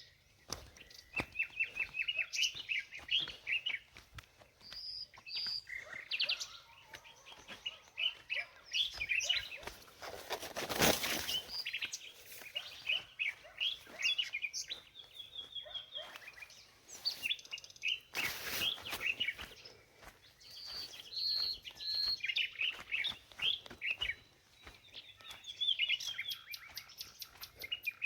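Small birds chirping and twittering continuously, many short calls and trills overlapping. Two brief loud rushes of noise break in, about eleven and eighteen seconds in.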